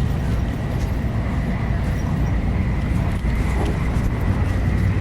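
Shinkansen bullet train running at speed, heard from inside the passenger cabin: a steady, even rumble with a faint steady high tone over it.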